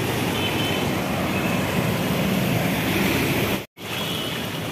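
Heavy rain falling steadily on an open umbrella and a flooded street, with road traffic mixed in. The sound cuts out for an instant near the end, then the steady rain and water noise resumes.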